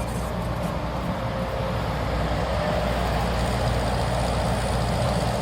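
CAT 320 GC hydraulic excavator's diesel engine running steadily, a low hum that grows slightly louder about two seconds in.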